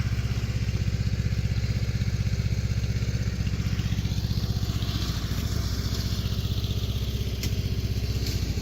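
Small engine, likely a riding lawn mower, idling steadily with a rapid, even pulsing beat.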